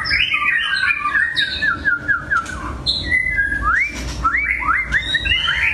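White-rumped shama singing: a fast run of short, repeated whistled notes, then, past the middle, a series of quick rising whistles.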